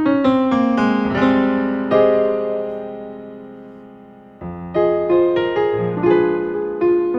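Background piano music: quick notes at the start, chords ringing and slowly fading, then a new phrase of struck notes about four and a half seconds in.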